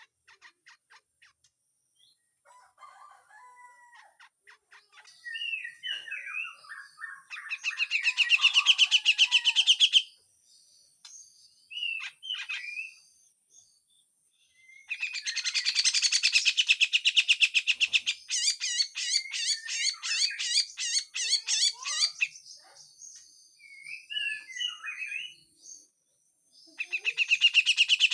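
Grey-cheeked bulbul (cucak jenggot) calling: harsh, rapid rattling chatter in three long bursts of a few seconds each, with short whistled, sliding notes in between.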